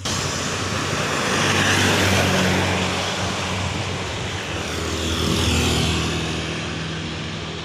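Car engine running, with a rushing noise that swells twice, about two seconds and five and a half seconds in.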